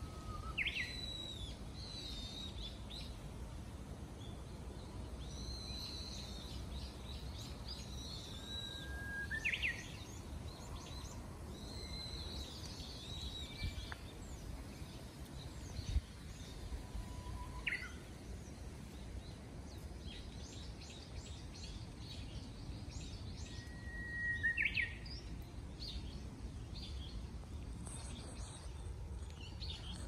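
Several wild birds singing and calling from the trees: a busy run of high chirps and whistles, with a louder call four times, a short level note that sweeps sharply upward. A steady low rumble runs underneath.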